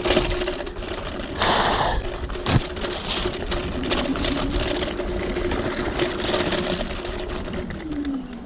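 TRBK-M2 electric hyperscooter riding off-road: the motor whines steadily under scattered clicks and knocks, with a short burst of rushing noise about one and a half seconds in. Near the end the whine drops in pitch and fades.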